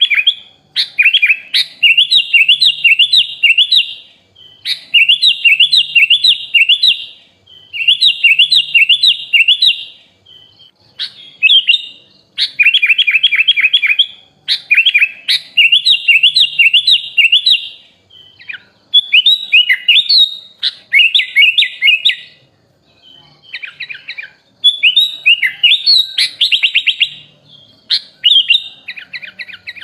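A sooty-headed bulbul singing loudly, in about ten bursts of rapid, repeated chirping notes, each a second or two long, with short pauses between them. The later phrases are more varied, as in a bulbul song stocked with copied phrases from other birds.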